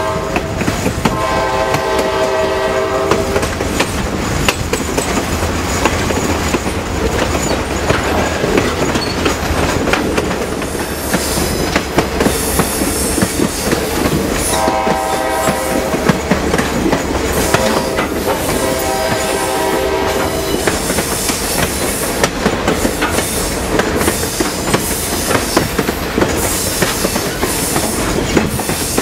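Passenger train running, its wheels clacking over the rail joints, heard from an open coach window. The locomotive horn sounds three times: a blast about a second in, a shorter one about 15 seconds in, and a longer one a few seconds later.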